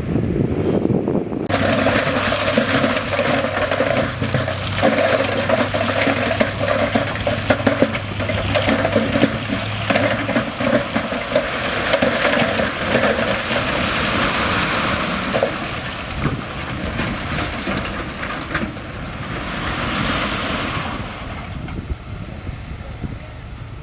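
A heavy diesel engine running under load while rocks clatter and rush. The engine drone drops away about halfway through, and the rushing noise carries on and swells briefly near the end.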